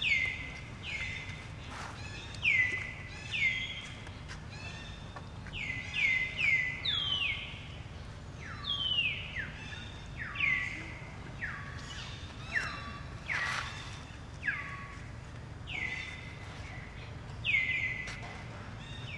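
Birds calling: a run of short whistled calls, each sliding quickly down in pitch and levelling off, about one a second and sometimes overlapping at two pitches, over a steady low background rumble.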